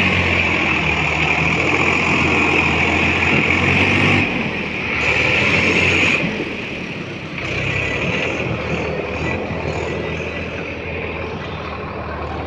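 Tractor's diesel engine running steadily, loud for the first six seconds and then a little quieter.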